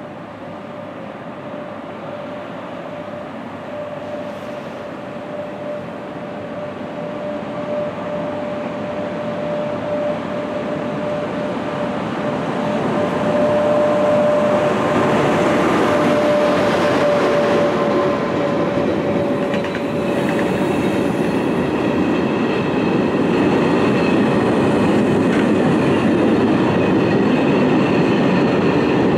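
A train approaching and passing close on the rails, growing steadily louder over the first dozen or so seconds, then a loud, steady rumble of wagons rolling by. A steady whine sounds through most of the first two thirds, and higher squealing tones come in from the wheels about two thirds of the way through.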